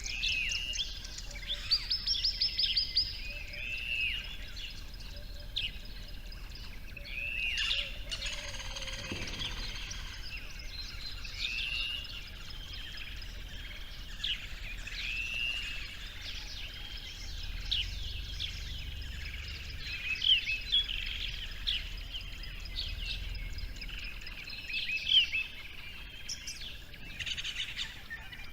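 Several birds calling and chirping over an outdoor ambience, with short arched notes repeating every second or two and a few louder sharp chirps.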